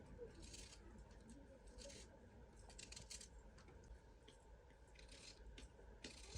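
Faint, short scraping or cutting strokes, roughly one a second at an uneven pace, over a low steady hum.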